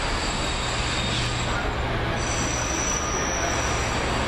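Train running on the rails, a steady rumble with thin high wheel-squeal tones that come and go.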